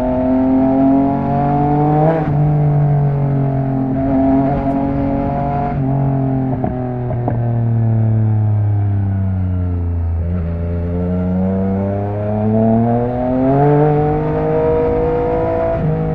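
Yamaha MT-09 three-cylinder engine running through an opened Akrapovic exhaust under riding load. The pitch holds and steps at a few points, falls off to a low point about ten seconds in as the bike slows, then rises again as it accelerates.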